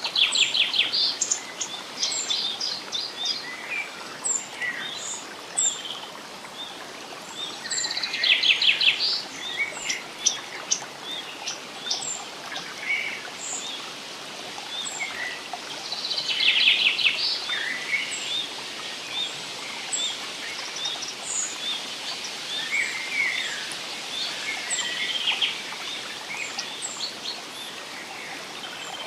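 Several songbirds singing over a steady rush of flowing water. One bird's rapid trill comes three times, about eight seconds apart, among many short high chirps from other birds.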